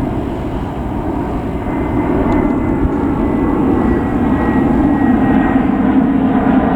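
Airbus A319-111 airliner's CFM56 turbofan engines running loud and steady as the jet passes, a faint high whine slowly falling in pitch over the deep rumble.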